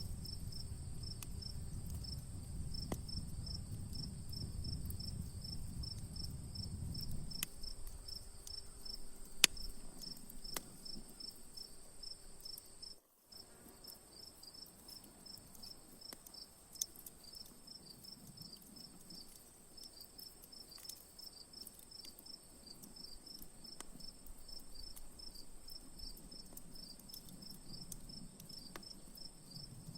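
Crickets chirping in a steady rapid pulse, with a higher constant insect hum, over a campfire crackling with scattered pops; one sharp pop about nine and a half seconds in. The sound cuts out for an instant about thirteen seconds in.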